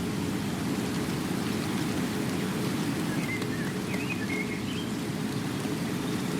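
Steady rain falling, a low, even wash of noise, with a few faint high chirps about halfway through.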